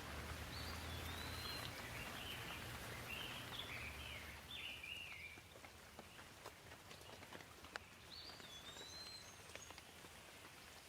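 Gentle rain falling as a soft, even hiss that thins out about halfway through, leaving scattered individual drips. A small bird calls in a string of short chirps over the first half and once more near the end.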